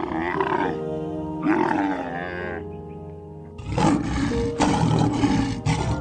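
Animal calls laid over background music: two drawn-out pitched calls in the first two and a half seconds, then from about three and a half seconds a loud, rough roar.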